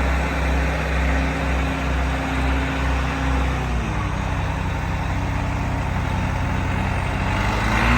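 Case 580 CK loader tractor's engine running; about four seconds in the revs drop to a lower idle, and they rise again near the end.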